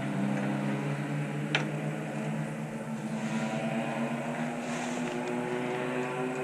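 Race car engines running at low, steady speed as the field circulates on the formation lap, a continuous drone of several engines, with one sharp click about a second and a half in.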